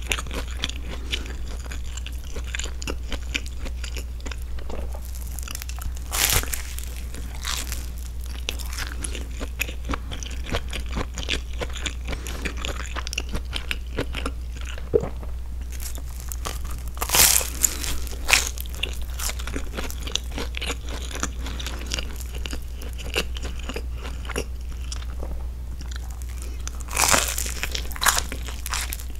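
Close-miked eating sounds: chewing and biting into a thick grilled cheese-and-broccoli stuffed bread sandwich, with small crunches and crackles from the toasted crust. Louder bites come a few times, about six seconds in, twice near the middle, and near the end.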